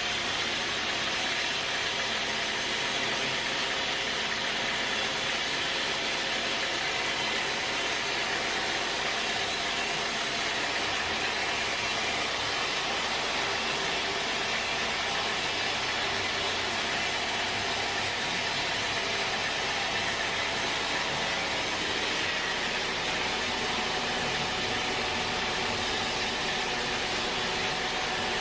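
Sawmill machinery running steadily: a constant, even mechanical noise with a faint hum and no pauses or impacts.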